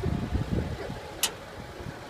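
A four-wheel-drive engine idling steadily in the background. Low rumbling on the microphone in the first second, and a single sharp click a little past halfway.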